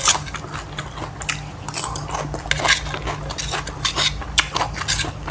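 Cutlery clinking and scraping against a plate in many short, irregular clicks while a meal is eaten.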